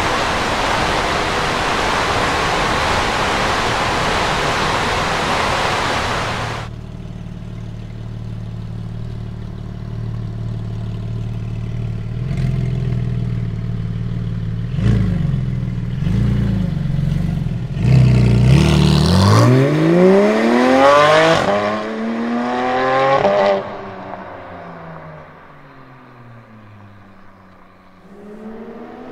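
Porsche 718 Spyder's 4.0-litre naturally aspirated flat-six through a Tubi Style catback exhaust. It starts with a loud, steady, unpitched noise that cuts off about six and a half seconds in, then idles. After that come a series of quick throttle blips and one long rev that climbs high and falls back. The note goes quieter near the end and rises again as the car drives off.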